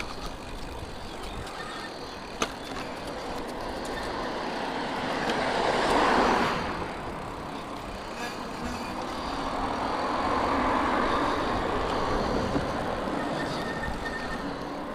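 Road traffic noise with a steady rushing. One vehicle passes, swelling and fading about six seconds in, and a second, gentler swell follows a few seconds later. There is one short click early on.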